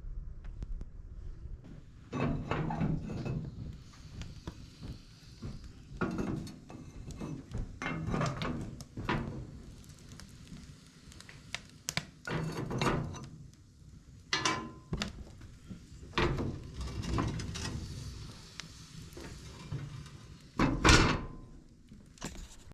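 Irregular handling sounds: a series of thunks, knocks and scrapes, the loudest a sharp knock near the end.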